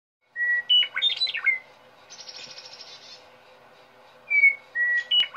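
Birdsong: a phrase of clear whistles that breaks into quick descending notes, a dry buzzy trill, then the same whistled phrase again about four seconds in.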